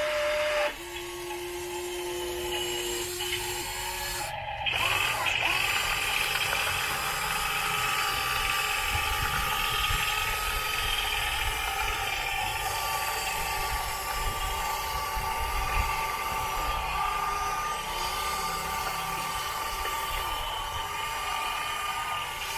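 Steady electric whine of the small motors on radio-controlled construction models. The pitch shifts at sudden changes about a second and about four and a half seconds in, then holds a high steady tone for the rest.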